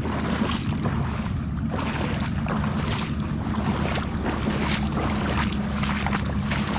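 Steps wading and splashing through shallow swamp water, irregular sloshes over a steady low wind rumble on the microphone.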